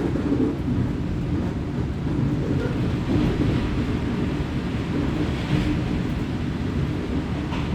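Running noise of a diesel railcar heard from inside the car: a steady low rumble of engine and wheels on the track.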